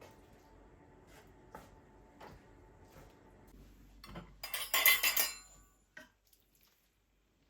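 Dishes and glassware clinking and clattering: a few soft knocks, then a louder flurry of ringing clinks about four and a half seconds in, and one last click.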